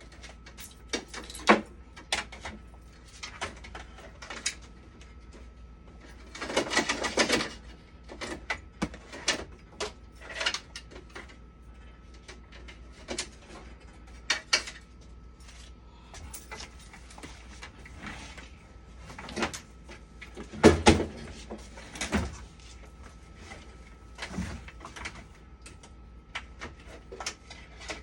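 Irregular clicks and knocks of tools and parts being handled during hands-on repair work on a machine, with a longer scraping rustle about seven seconds in. A faint steady high tone sits underneath.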